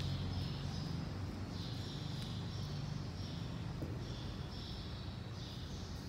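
Small birds chirping in short high bursts, about one a second, over a steady low hum.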